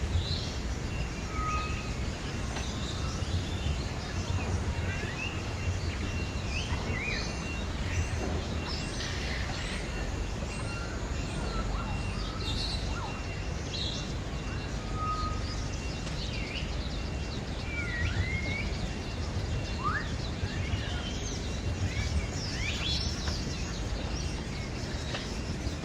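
Assorted birds chirping and calling, short scattered chirps and quick rising and falling whistles, over a steady background of low noise.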